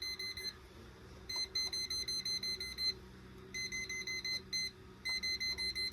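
Voltage tester beeping rapidly in repeated bursts as it detects live voltage at the water heater's freshly energised 240 V supply.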